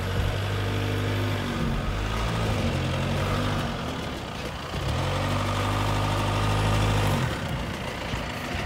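2019 Audi A4 Allroad's 2.0 TDI four-cylinder diesel engine running under load as the car drives up a grassy slope. The engine note is held steady, eases off about halfway through, comes back strongly, then drops away near the end.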